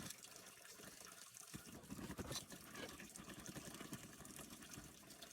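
Faint running water, with a sharp click at the start and another about a second and a half in.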